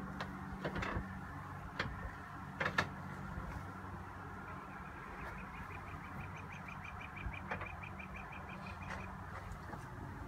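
A small songbird trilling: a rapid, even series of high notes, about five or six a second, lasting several seconds midway, after a few short sharp chirps or clicks in the first seconds. A low steady hum runs beneath it and stops near the end.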